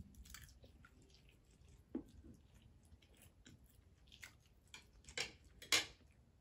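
People chewing noodles close to the microphone: soft wet mouth sounds with scattered small smacks and clicks, and a few louder smacks near the end.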